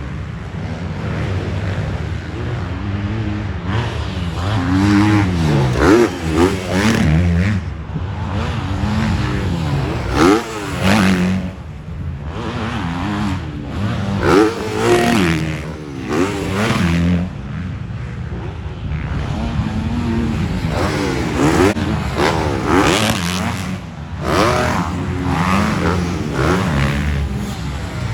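Several motocross dirt bikes racing, their engines revving up and falling back again and again through gear changes, with overlapping rising and falling engine notes throughout.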